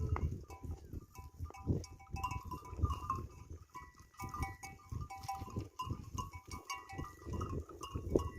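Goats' bells clinking irregularly as the animals move about, with uneven low thumps underneath.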